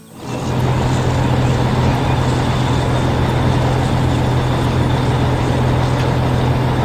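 A heavy vehicle engine running loud and steady with a deep hum, coming in sharply at the start.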